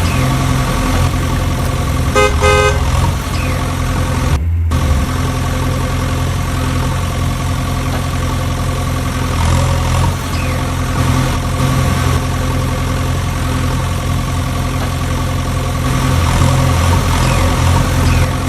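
Truck engine running steadily, with a quick series of horn toots about two seconds in; the sound cuts out for a moment about four and a half seconds in.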